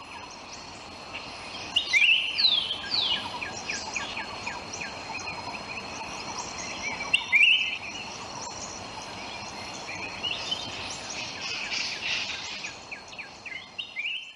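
Birds chirping and trilling, with quick falling whistled notes loudest about two seconds and again about seven seconds in, over a faint steady hiss.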